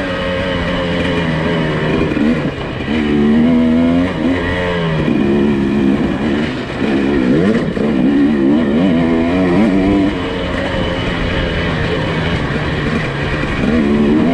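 Nissan Pathfinder SUV engine running under varying throttle, its pitch rising and falling again and again as the revs change.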